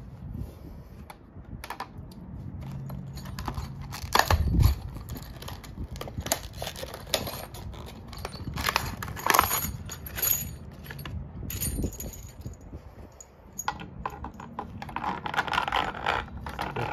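Irregular knocks, clicks and scrapes of 1-inch PVC pipe and fittings being handled and pushed together, with light clinks of metal hardware, and a longer stretch of scraping near the end.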